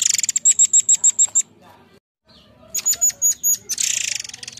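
Murai air song: a fast run of about eight sharp, high whistled notes, a short break, four more high notes, then a dense, harsh high-pitched chatter near the end.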